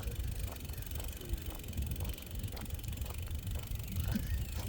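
Wind rumbling on a hand-held phone's microphone, with faint light clicks scattered through it.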